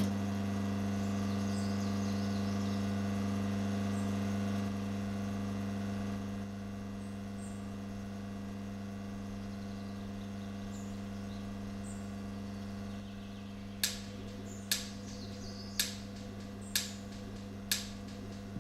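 Steady low electronic drone, a hum with many overtones that gets quieter in a few steps. Toward the end, five sharp clicks come about a second apart over it.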